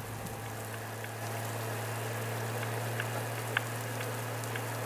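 Rain hissing against a helmet-mounted camera during a motorcycle ride, with scattered sharp raindrop ticks over a steady low hum.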